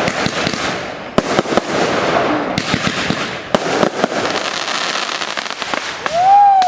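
Fireworks going off: a dense crackling with several sharp bangs. Near the end a short tone rises and falls in pitch.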